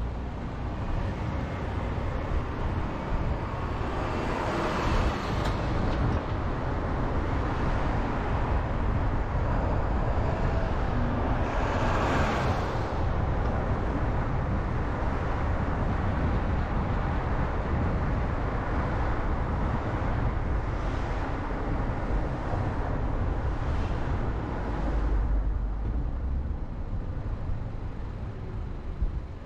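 Steady road and tyre noise from a car being driven, with the rush of other vehicles passing about four seconds in and again about twelve seconds in.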